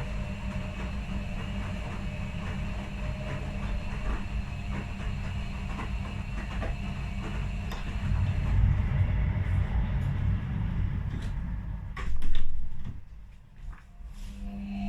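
Washing machines running a quick wash program with blankets inside: steady motor hum and drum rumble. About twelve seconds in there is a louder surge, then a short lull, and the motor hum comes back near the end.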